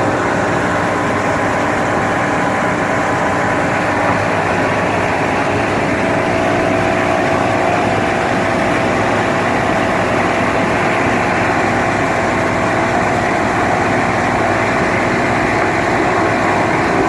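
A 22-foot Angler boat's engine running steadily while the boat is underway.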